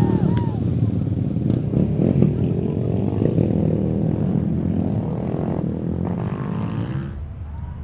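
A motor vehicle's engine running loudly close by, then dropping away about seven seconds in as it passes.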